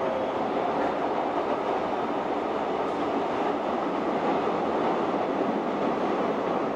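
Docklands Light Railway train running along the track: a steady rumble of wheels on rail.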